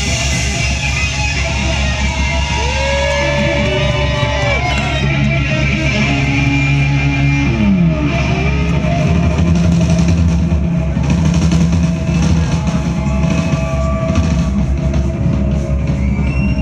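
Live rock band playing amplified music, with a note sliding down about eight seconds in.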